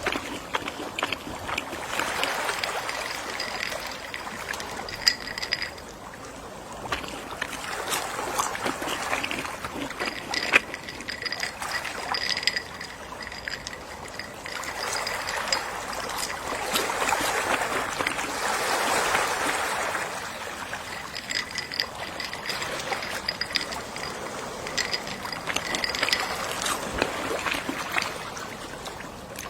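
Gentle sea waves washing ashore in slow swells, rising and falling about three times, with a faint repeated ticking underneath.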